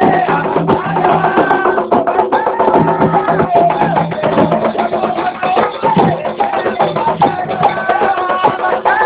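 Afro-Brazilian Xangô ritual music: drums and a sharp, rapid clacking beat with voices singing over them.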